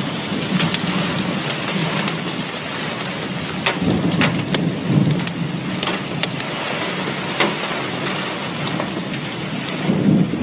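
Heavy rain falling steadily, with many sharp drop hits close to the microphone and a low rumble that swells near the end.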